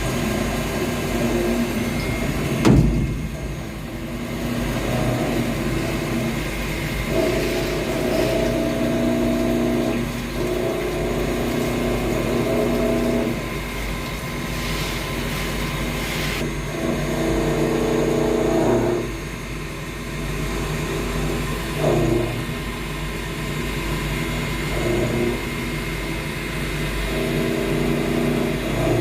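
Milling machine face-milling a copper part: a steady motor hum with a mid-pitched cutting tone that comes and goes in stretches of a few seconds as the face mill engages the copper. There is a single sharp knock about three seconds in.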